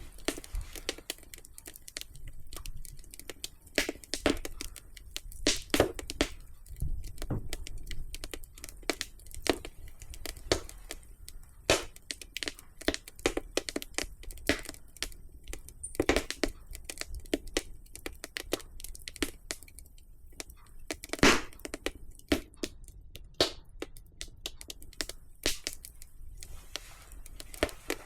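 Wood fire burning in a fireplace, crackling with irregular sharp pops and snaps over a low rumble of the flames.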